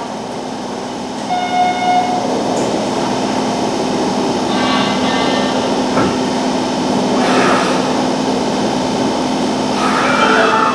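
Hanshin Railway electric train pulling away from the platform after its doors close: a steady running hum with faint electric motor tones, growing a little louder toward the end.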